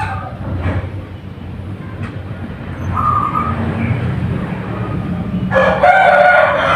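A rooster crowing loudly near the end, a long call with several stacked tones, over a steady low hum; a single short call sounds about three seconds in.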